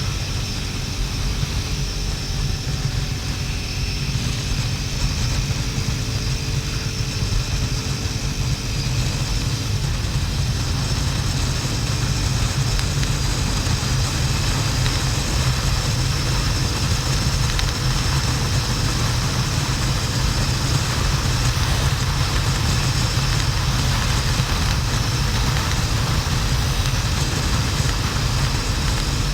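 Motorcycle riding at speed: wind noise buffeting the camera microphone, steady throughout, with the hum of the Harley-Davidson XL1200N Sportster's air-cooled V-twin underneath, its pitch drifting a little in the first ten seconds.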